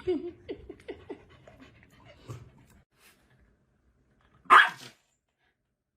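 A dog making several short, quick sounds in the first second, then, after a pause, one loud bark about four and a half seconds in.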